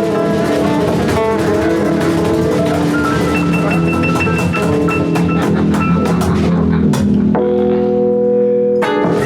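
Live band playing an instrumental passage with drum kit. About seven seconds in the drums stop and a chord rings on, then one more loud hit comes near the end, as the song finishes.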